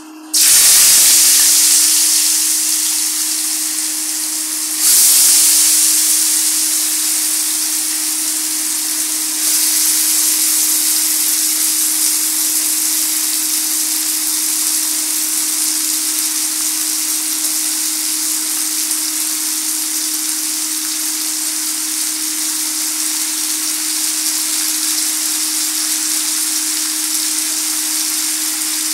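Julienned potatoes frying in hot oil in a wok: a loud sizzle bursts up as they go in, surges again about five seconds in and about nine seconds in as more potato is added, then settles into a steady frying sizzle. A steady low hum runs underneath.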